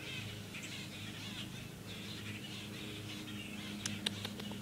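Quiet outdoor background: faint bird chirping over a steady low hum, with a few short clicks near the end.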